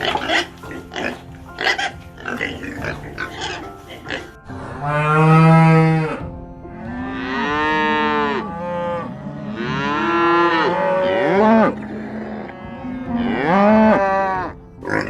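Cattle mooing: four long, drawn-out moos that rise and fall in pitch, the first about four and a half seconds in, after a run of short rapid grunts.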